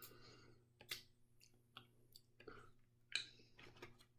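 Near silence with a few faint, scattered clicks and light knocks, the loudest about three seconds in.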